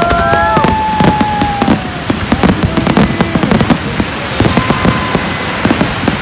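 Fireworks going off in rapid crackling and popping bursts. During the first second or two, a few long, steady horn-like tones sound over them and then fade out.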